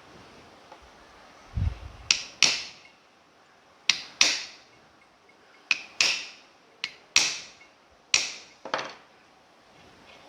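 About ten sharp hammer taps on a mixer-grinder motor's body, mostly in quick pairs, each ringing briefly. The tapping frees an armature that has bound after the body screws were tightened.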